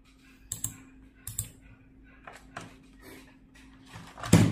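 Scattered sharp clicks and taps of multimeter test probes and small parts being handled on a repair bench while switching transistors are tested. One louder knock comes near the end.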